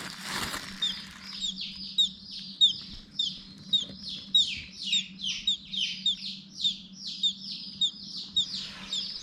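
Silkie chicks peeping: a steady run of short, high, falling peeps, about two a second, with a brief rustle at the start.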